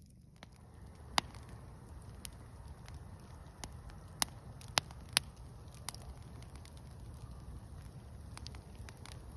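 Fire crackling: scattered sharp pops and snaps over a steady low rumble, with a cluster of louder pops around the middle.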